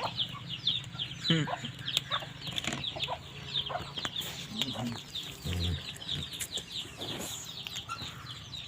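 Chickens calling: a continuous run of high, short, falling peeps several times a second, typical of chicks, with a few lower clucks mixed in.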